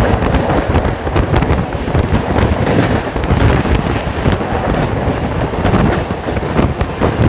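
Passenger train running, heard from aboard: a loud rumble and rattle of wheels and coaches with a dense run of sharp clicks.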